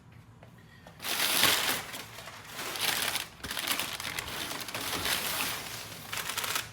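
Packaging wrap crinkling and rustling as a wrapped exhaust section is handled, starting about a second in and going on unevenly.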